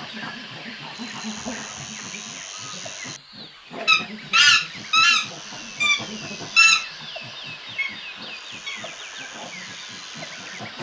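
Chimpanzee calls: a run of five loud, high-pitched hoots and screams about four seconds in, over a steady high insect buzz and scattered bird chirps.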